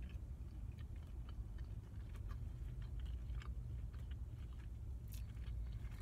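A person chewing a mouthful of barbecue-sauce-drenched rib sandwich with the mouth closed: scattered small wet smacks and clicks, a few louder near the end. A steady low hum runs underneath.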